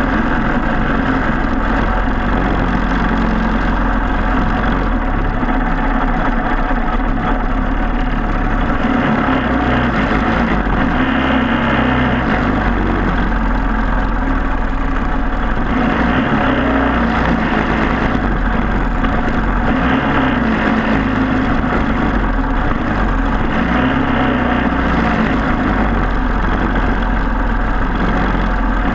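Briggs & Stratton Animal four-stroke racing kart engine running hard and continuously, its pitch rising and falling every few seconds as it revs up and down.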